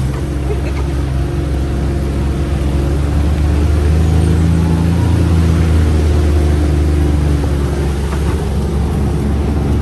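UTV engine running steadily while the vehicle drives along, growing a little louder about four seconds in.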